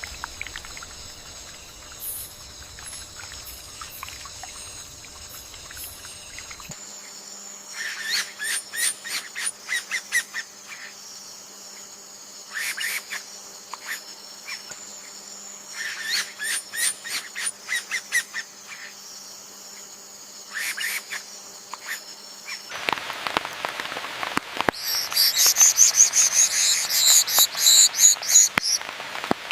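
Forest ambience: a steady, high insect drone with short bursts of rapid chirping calls every few seconds, and a louder, pulsing high-pitched buzz in the last few seconds.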